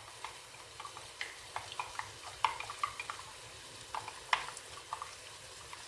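A spoon stirring chicken stock into a hot pan of spices, making scattered clicks and taps against the pan over a soft steady sizzling hiss.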